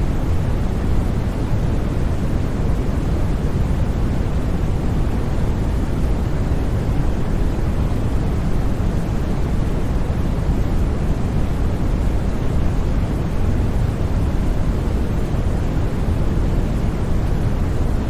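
Steady, unbroken white noise for sleep: an even hiss with no changes or sudden sounds, heaviest in the low range and thinning out toward the top.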